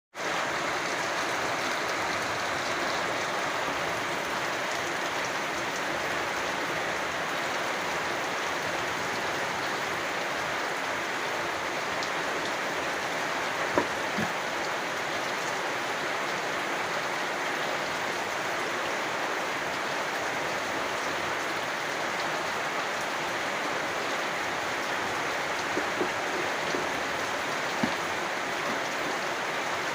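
Steady rainfall, a dense even patter of raindrops, with a few louder single drop hits around the middle and near the end.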